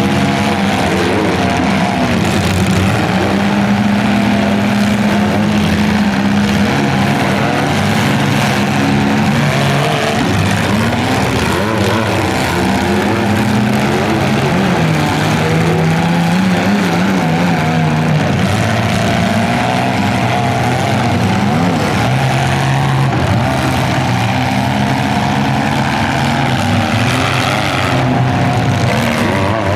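Several compact car engines running at once, revving up and down with pitch that keeps shifting, as in a demolition derby heat.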